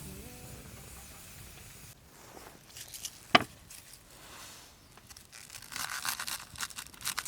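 The end of background music fades out. It is followed by a single sharp click about three seconds in, then crinkling and scraping near the end as things are handled, like packaging being torn or crumpled.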